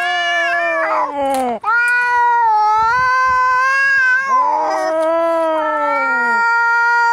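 Angry cats caterwauling in long, drawn-out, wavering yowls, the sound of a cat standoff or fight. The yowling breaks off briefly about a second and a half in, then carries on in long wails.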